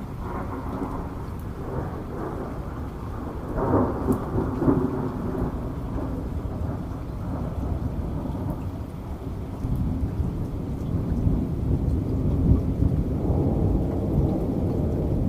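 Rolling thunder rumbling over steady rain, the rumble swelling loudest about four seconds in and building again in the second half.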